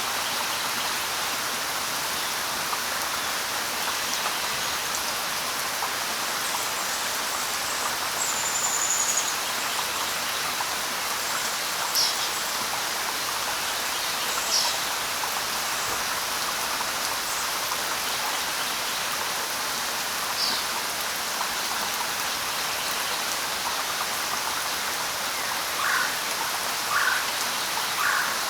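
Light rain falling in a steady, even hiss, with a few scattered short bird chirps and one brief high whistle over it, the last three chirps close together near the end.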